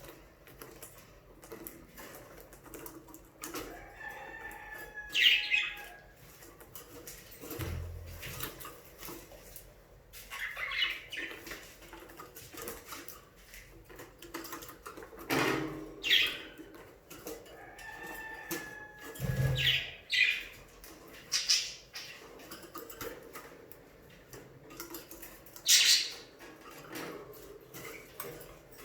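A flock of budgerigars giving scattered short chirps and calls, with wing flapping and a couple of dull thumps.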